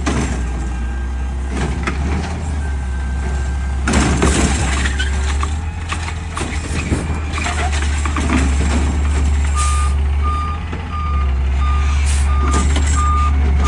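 Peterbilt 520 garbage truck's engine running with a steady low drone and occasional clanks, then a reversing alarm beeping steadily, about two beeps a second, for the last four seconds.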